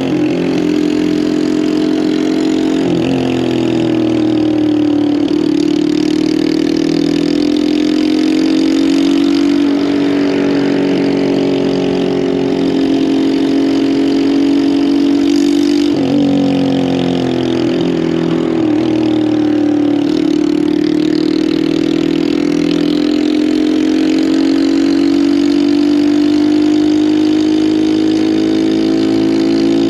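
Lifan KPM200 motorcycle's 200cc single-cylinder engine under way, its pitch climbing under throttle and dropping sharply at each gear change several times, then holding a long, slowly rising run in the second half. Wind noise runs over it.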